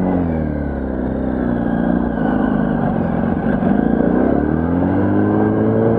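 Yamaha R1's inline-four engine revving as the motorcycle pulls away, its pitch falling briefly, then rising with the throttle, dipping at a gear change and climbing again.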